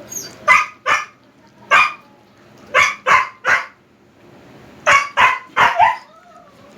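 Husky giving about ten short, sharp barks and yips in three quick clusters, ending in a brief whine.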